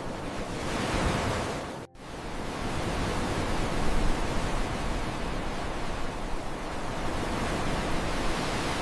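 Ocean surf rushing in a steady wash of noise that swells slightly around the middle, with a brief dropout to silence about two seconds in.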